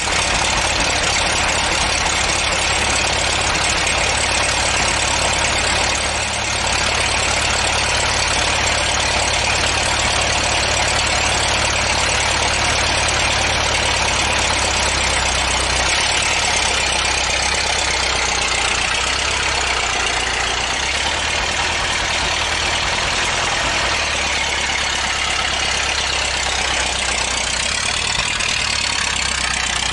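Vehicle engine running steadily, a low hum under an even wash of noise.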